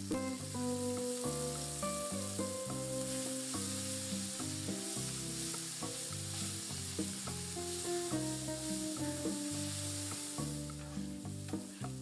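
Sliced button mushrooms sizzling in oil in a frying pan, with a spatula scraping and stirring them. Background music with a changing melody plays throughout.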